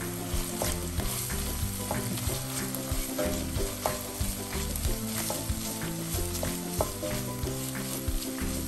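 Lentils, smoked pancetta and soffritto sizzling in a stainless steel pot while a wooden spoon stirs them, with frequent scrapes and clicks of the spoon against the pan as the tomato paste is worked in.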